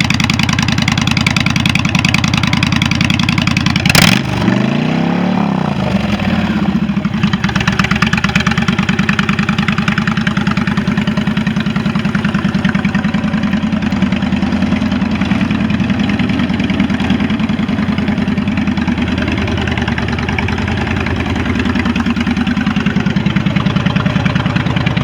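2013 Honda Fury's V-twin engine idling steadily. About four seconds in there is a sharp click, followed by one quick rev that rises and falls in pitch before the engine drops back to idle.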